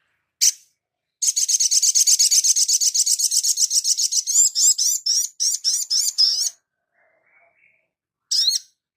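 A small bird of the sunbird family singing: a single sharp chip, then a fast, high trill of about a dozen notes a second for some three seconds that slows into separate rising notes, and one more chip near the end.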